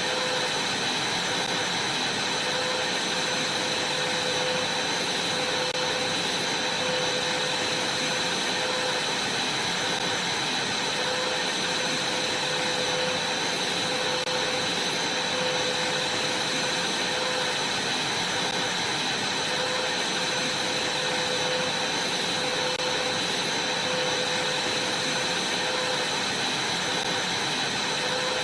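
Vacuum cleaner running steadily: a constant rush of air with a steady high whine over it.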